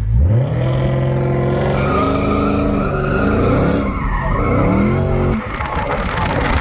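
Dodge Hemi V8 revved hard during a slide, tires skidding. The revs shoot up just after the start and hold high, dip about four seconds in and climb again, then drop away about five and a half seconds in.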